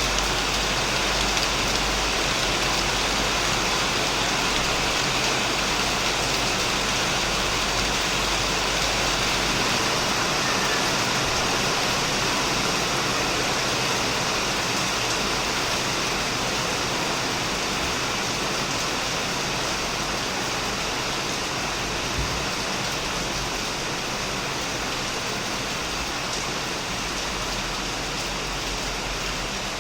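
Heavy rain falling steadily on a shed roof and plants, a dense even hiss that eases slightly in the second half.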